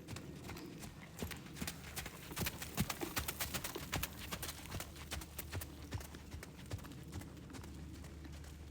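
Hoofbeats of a warmblood horse being ridden: a quick run of knocks and clicks that is densest a couple of seconds in and thins out near the end.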